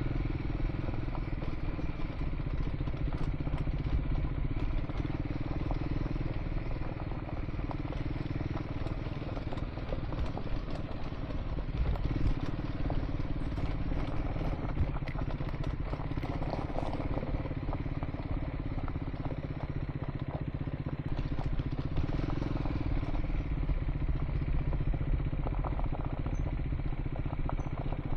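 Triumph Scrambler 400 X motorcycle's single-cylinder engine running steadily while riding a gravel track, with loose stones clattering under the tyres.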